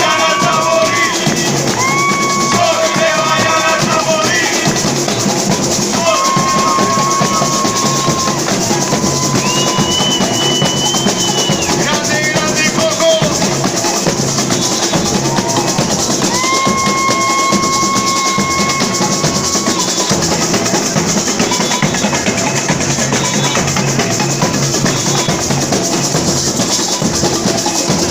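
Samba batería drumming: a full percussion section playing a steady, dense samba rhythm with bass drums. Long held melodic notes sound over the drums for the first twenty seconds or so, then the drums carry on alone.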